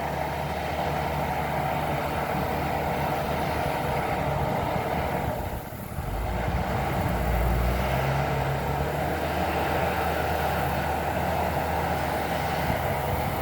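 Diesel engine of a large wide-tyred bulldozer running steadily while it clears brush, dipping briefly about six seconds in and then picking up again.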